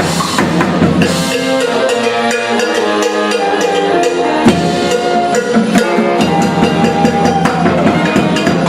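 Live band playing: a steady drum beat under a melody of held, sliding notes.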